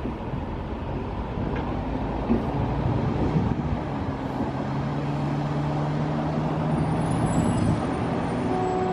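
Box truck's engine running steadily, a low rumble with a steady hum that comes up from about two and a half seconds in and fades near the end.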